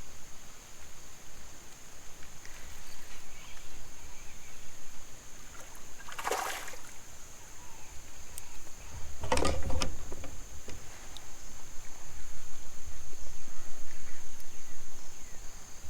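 Water splashing and sloshing around a kayak as a hooked smallmouth bass is brought in, with two sharper splashes about six and nine and a half seconds in, under a steady high-pitched whine.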